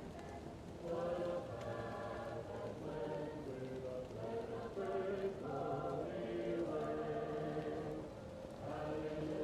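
Choir singing slow, held notes, muffled as if heard from another room, over a wood fire crackling; the singing swells in about a second in.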